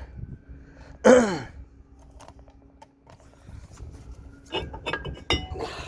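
A man's loud wordless exclamation about a second in, its pitch falling steeply. Near the end come several light metallic clinks and knocks.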